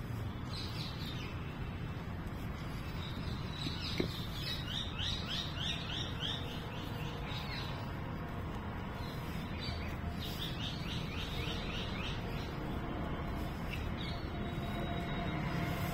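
Songbird calling outdoors: bursts of quick, repeated high chirps, three runs of them, with a single sharp click about four seconds in.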